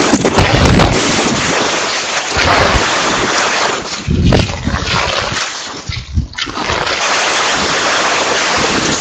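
Strong typhoon wind gusting over the microphone, loud and rumbling, easing briefly about six seconds in before picking up again.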